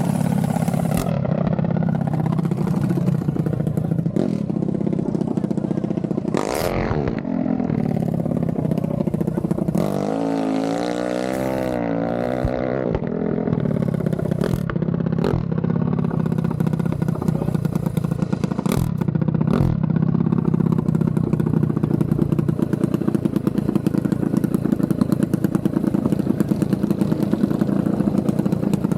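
Mini bike engine running steadily, with a quick rev up and down about seven seconds in and a wavering rise and fall in pitch from about ten to thirteen seconds.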